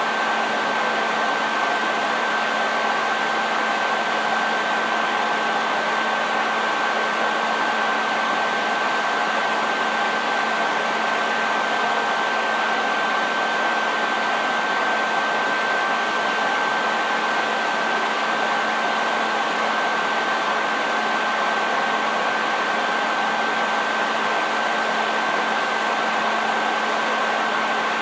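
Hair dryer running steadily: an even rushing airflow with a steady high whine from the motor and a lower hum beneath it.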